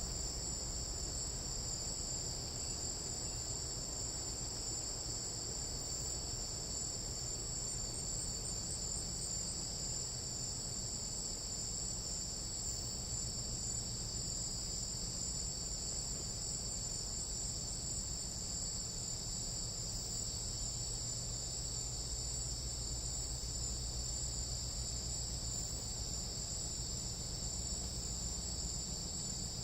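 Chorus of jungle night insects, crickets and katydids trilling steadily at a high pitch in two unbroken layers, with a faint low hum beneath.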